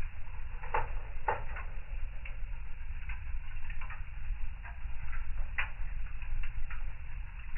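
Wood fire in a fireplace crackling, with irregular pops and snaps. Two sharper pops come about a second in and another a little past the middle, over a steady low rumble.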